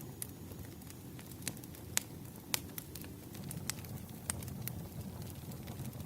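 Wood fire crackling: irregular sharp pops and snaps over a steady low rumble of the burning fire, the strongest pops about two seconds in.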